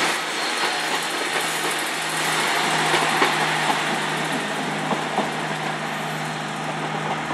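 Class 150 Sprinter diesel multiple unit's underfloor diesel engines running as the train pulls out, a steady drone with a constant low hum.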